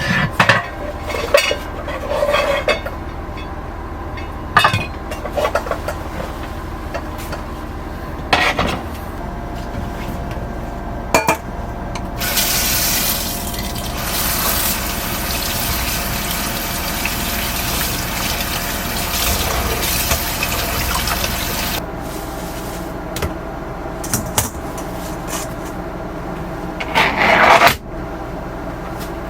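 Water running into a container for about ten seconds. Scattered knocks and clatter of handled objects come before and after it, with a short louder rush near the end.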